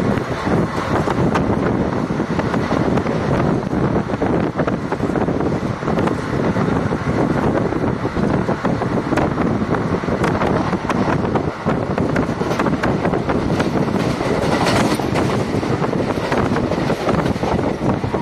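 Passenger train running at speed, heard from aboard: a steady rumble of wheels on the rails, with many sharp clicks as the wheels pass over rail joints.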